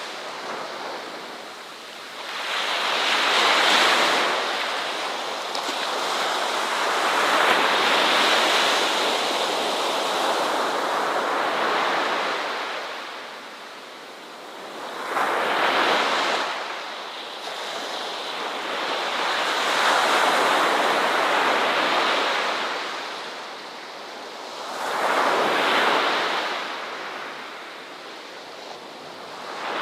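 Ocean waves breaking and washing up a shore. The surf swells and ebbs five times, a few seconds apart.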